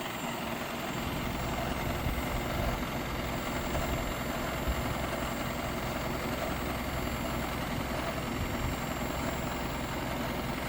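Isuzu 5.2L 4HK1-TC turbo diesel engine of a 2009 Isuzu NPR HD truck idling steadily.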